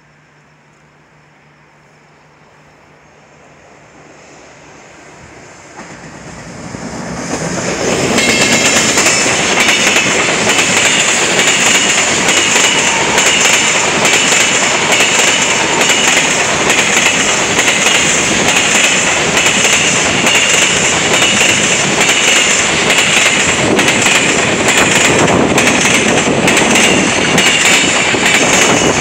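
JR Freight EF210 electric locomotive hauling a freight train, approaching and growing steadily louder over the first several seconds, then passing close with a continuous loud rumble and a rapid clatter of wagon wheels over rail joints.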